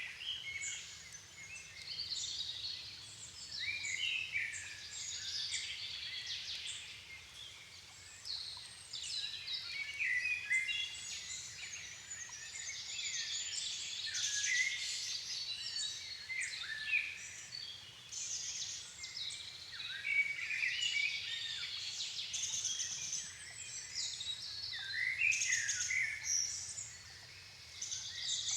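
Dusk bird chorus in a floodplain forest: several songbirds singing at once in overlapping phrases, trills and chirps, over a faint low background hum.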